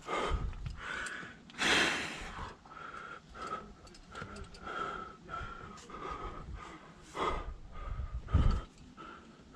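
A climber breathing hard with short, forceful exhales while working up a rock chimney. The loudest breath comes about two seconds in, and there is a low thump near the end.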